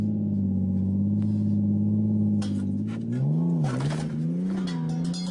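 Car engine running at a steady pitch, then dipping and climbing back up about three and a half seconds in.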